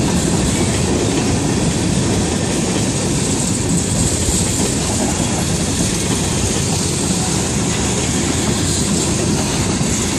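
Freight train of tank cars and covered hoppers rolling past at a railroad crossing: a steady, loud rumble of wheels on the rails with a constant high hiss.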